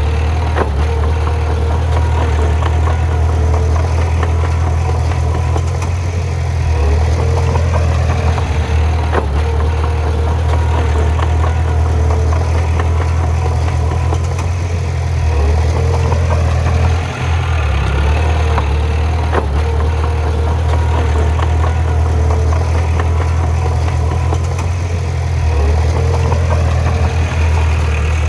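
Bulldozer's diesel engine running steadily with a deep drone, with a few light knocks over it.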